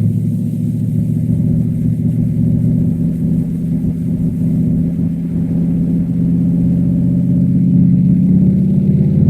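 Cadillac STS-V's supercharged 4.4-litre V8 running under load, its note holding fairly steady and then rising near the end as the car accelerates.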